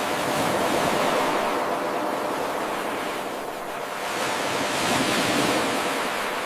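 Ocean surf: a wave washes in loudly, draws back, then a second surge swells about five seconds in and fades away.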